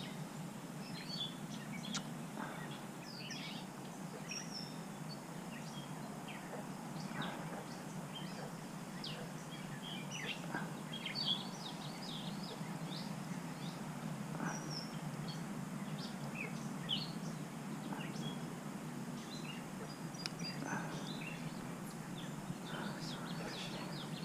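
Birds chirping and calling on and off, many short high chirps and little whistled glides, over a steady low background hum.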